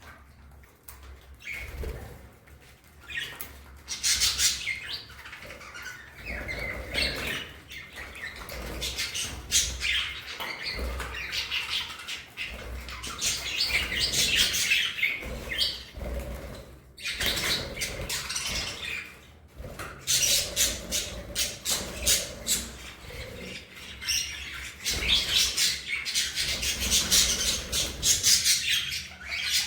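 A flock of budgerigars chattering and chirping continuously, with wings flapping in flight, broken by two brief pauses in the second half.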